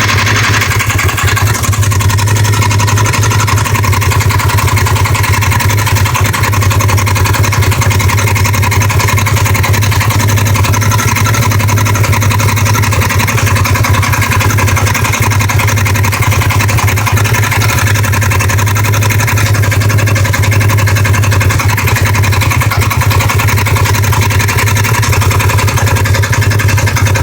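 2015 Polaris RZR XP 1000's parallel-twin engine idling steadily with a knocking sound that the owner calls horrible. The knock is coming from the right side of the machine.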